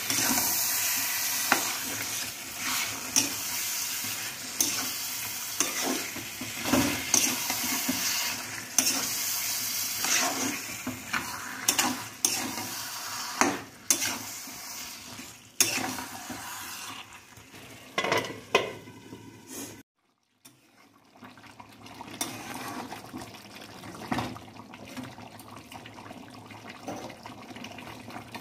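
Chicken feet and giblets frying in spiced oil in a kadai, sizzling, while a spatula stirs them with many short scrapes and knocks against the pan. About twenty seconds in the sound drops out briefly, then a quieter steady sizzle of the curry cooking with only a few strokes of the spatula.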